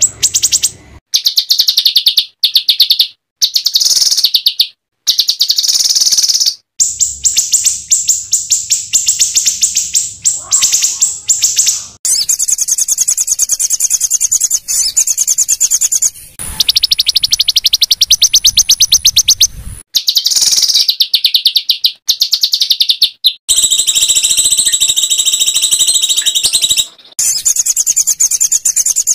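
Small songbird song made of rapid, harsh, high-pitched repeated notes ('tembakan kasar'), many notes a second, in runs of a few seconds that start and stop abruptly.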